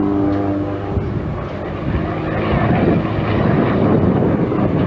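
Propeller-driven aerobatic airplane's engine running in flight during a maneuver. A steady tone in the first seconds turns rougher and fuller about halfway through.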